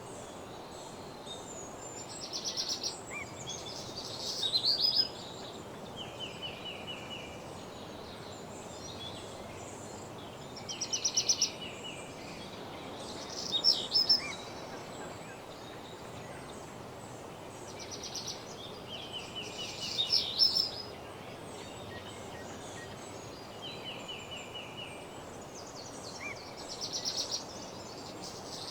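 Woodland songbird singing the same short phrase about every six to seven seconds: a fast trill followed by a brief, higher flourish. A steady background hiss runs underneath.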